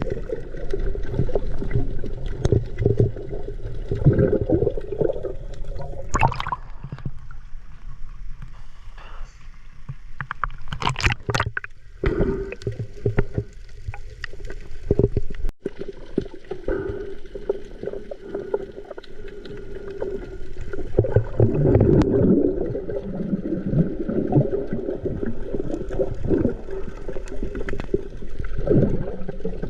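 Water sloshing and gurgling, with a few sharper splashes about a third of the way in.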